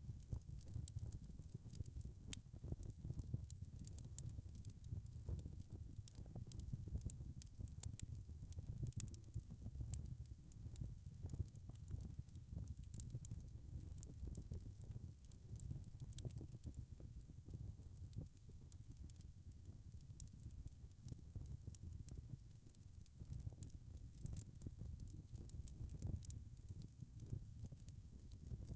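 Wood fire crackling: many small, irregular sharp pops and ticks over a low, steady rumble of burning.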